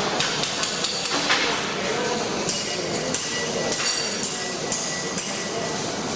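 Welding-shop noise: irregular sharp metallic taps and clinks over a steady hiss.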